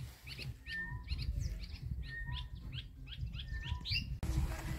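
Birds chirping: a quick run of short rising chirps mixed with brief whistled notes, several a second, over a low rumble. It stops abruptly near the end.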